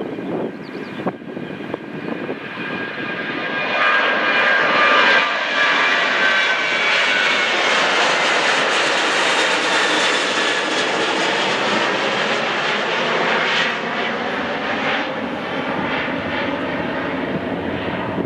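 Airliner's engines as the plane passes close by: a roar that swells a few seconds in, carrying a high whine that slides in pitch, and eases off after about ten seconds.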